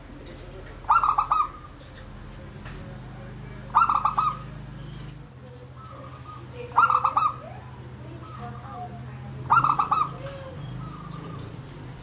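Zebra dove (perkutut) cooing: four short, staccato coo phrases about three seconds apart, with fainter calls in between.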